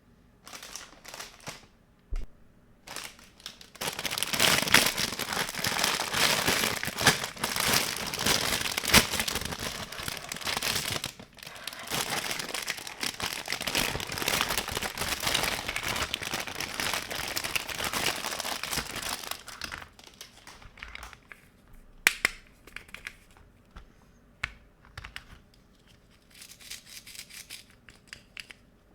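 Packaging being crumpled and crinkled, with some tearing, steadily for about sixteen seconds, then a few scattered light clicks and taps.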